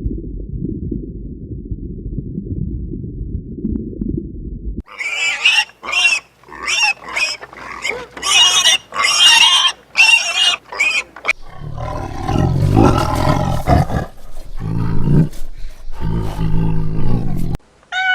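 Animal sounds in three parts: a low rumbling noise for about five seconds, then a run of short, shrill cries, then deep grunts or growls until a sudden stop near the end.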